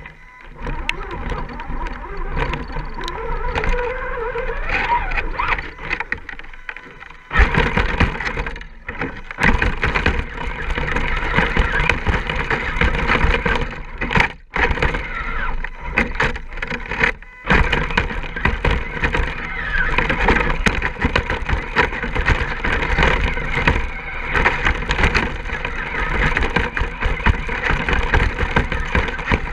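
Radio-controlled scale rock crawler driving over rough ground: its electric motor and gears whine, with tyres scrabbling and knocking over rock. It gets louder about seven seconds in and cuts out briefly twice in the middle.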